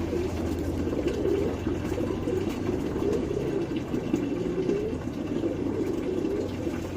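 Pigeons cooing, a continuous low burbling, over a steady low hum that fades after about a second.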